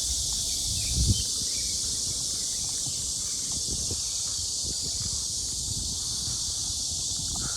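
Steady, dense chorus of insects buzzing high-pitched, with low thuds of footsteps, a heavier one about a second in.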